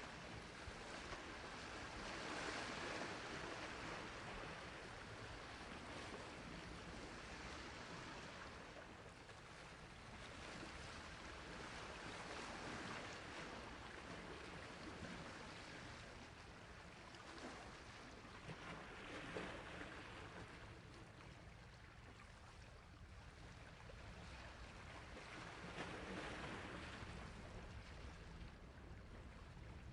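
Sea waves washing onto a shore, a soft hiss of surf that swells and fades every several seconds.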